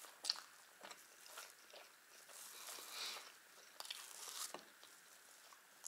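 Close-up eating sounds of thin pancakes being chewed: soft wet mouth clicks and smacks, with a couple of longer soft rustles in the middle as a pancake is handled on the plate.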